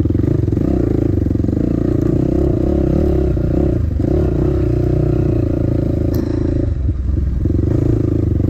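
Dirt bike engine running hard under throttle while riding, with brief dips as the throttle eases off near the middle and again about seven seconds in.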